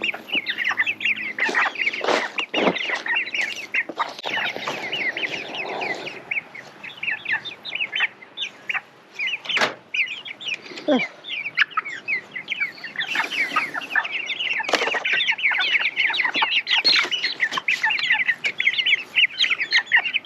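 A crowd of three-week-old Cornish cross broiler chicks cheeping constantly in dense, rapid peeps, with a few short knocks and louder calls scattered through.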